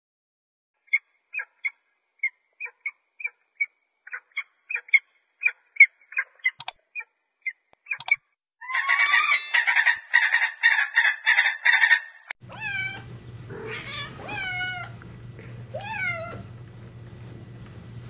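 A falcon calling: a string of short, sharp chirps, then a few seconds of rapid, harsh cackling. After that a cat meows several times over a low steady hum.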